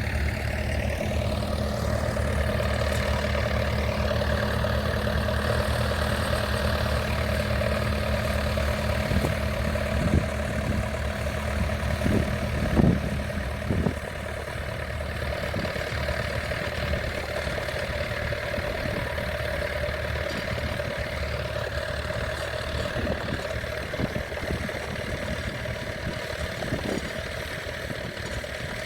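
Tractor engine running steadily at low revs, with a few knocks about halfway through. The engine note grows weaker after that.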